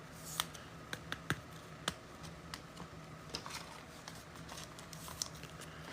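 Faint, irregular clicks and taps of trading cards being handled and shuffled, over a faint steady low hum.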